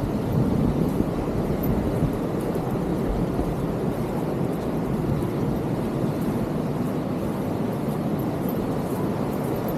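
Steady rushing of water, an even noise with no let-up, heaviest in the low and middle range.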